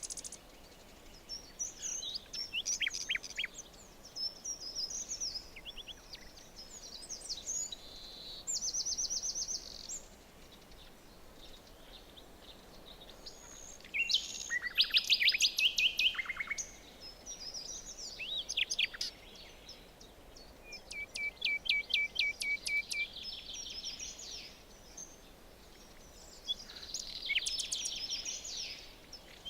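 Several songbirds singing in a forest, with short whistled and chirping phrases every few seconds, including fast trills of rapidly repeated notes. A faint steady background hiss lies under the songs.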